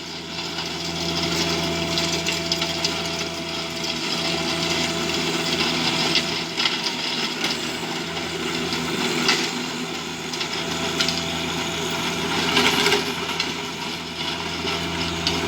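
Tractor engine running steadily while its tiller churns up the soil, a constant drone with a grinding, scraping noise and scattered knocks.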